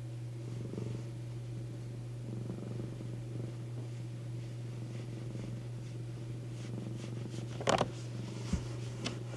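Domestic cat purring on a lap, over a steady low hum. About eight seconds in, a brief scratchy noise is the loudest sound, followed by a couple of small clicks.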